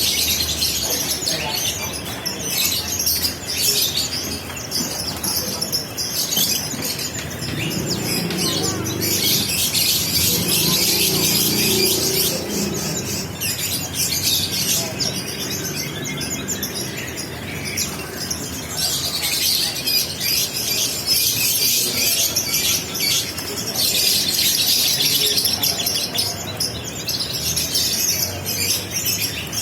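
Many caged songbirds chirping and twittering at once in a dense, unbroken chorus, with a lower murmur underneath a little after a quarter of the way through.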